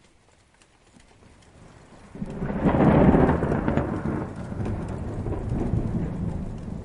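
A rolling thunderclap rumbles in about two seconds in, peaks a second later and dies away slowly, over rain pattering with scattered drips.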